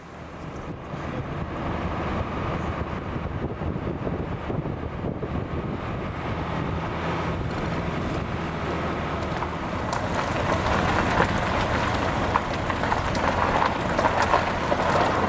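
Vehicle running with steady road and wind noise, starting abruptly and growing louder and rougher, with crackling gusts, from about ten seconds in.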